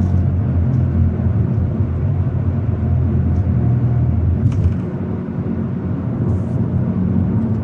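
Hyundai Elantra N's turbocharged 2.0-litre four-cylinder running at a steady cruise: a low, even engine drone mixed with road rumble, easing slightly about five seconds in.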